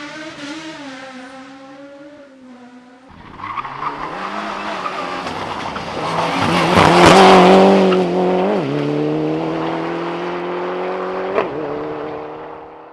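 Competition car engines at speed in two shots cut together. In the first the engine note falls and fades. In the second a car builds to its loudest about seven seconds in, with a lot of noise, then drops in pitch and runs on at a steady note.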